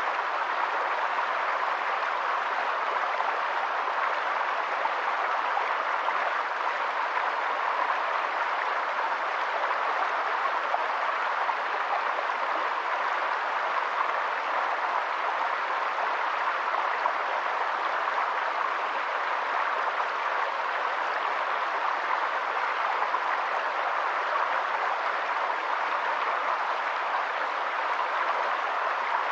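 Steady rushing hiss of water, even and unbroken, without any distinct splashes or drops standing out.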